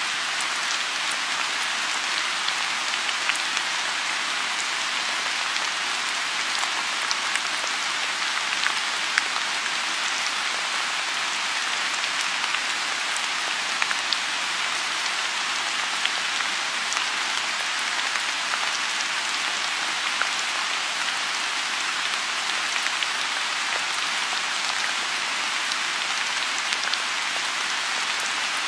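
Steady rain falling on a lotus pond: an even hiss with many scattered, sharper drop ticks.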